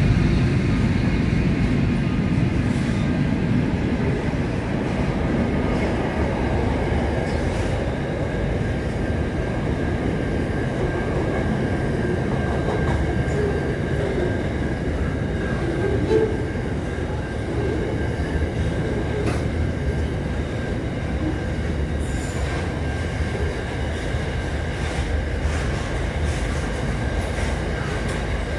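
Double-stacked container freight train rolling past at a steady pace: a continuous rumble of wagon wheels on the rails, with a thin, steady wheel squeal running over it.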